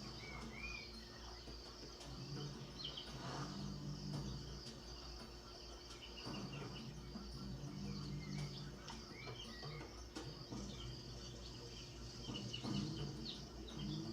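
Insects chirping steadily, with short high chirping calls scattered throughout and a low hum that comes and goes beneath.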